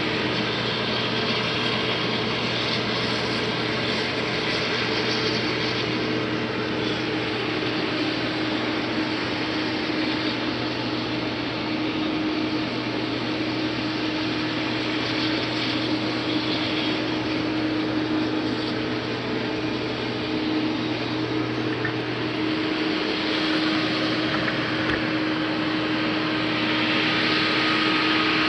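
IH 2577 rotary combine running steadily while cutting wheat: a constant machine hum with steady tones. The lower part of the hum drops away a little past three-quarters of the way through, and the sound grows slightly louder near the end.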